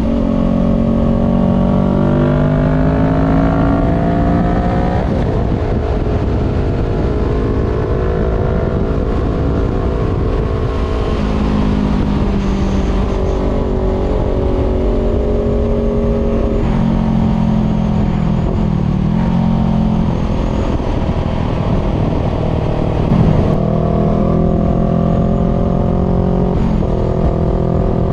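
Voge 500R's parallel-twin engine through an open full exhaust with the dB killer removed, heard onboard while riding. The revs climb for the first few seconds and drop about five seconds in, then rise and fall with the throttle, with a couple of quick dips and a climb near the end. Wind rush runs underneath.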